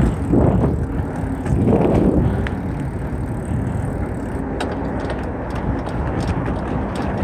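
Riding a mountain bike: wind rumbling on the microphone and the bike rattling over the ground, with two louder swells in the first two seconds and scattered sharp clicks and ticks in the second half.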